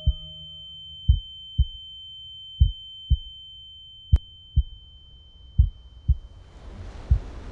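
Slow heartbeat sound effect: pairs of low thumps, lub-dub, about every second and a half, under a steady high-pitched ringing tone. Near the end the tone stops and a rushing noise fades in.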